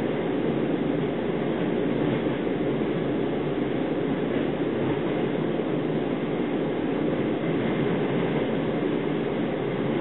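Steady running noise heard inside a 25Z passenger coach travelling at speed: an even rumble of the wheels on the rails, with no separate knocks or rail-joint beat.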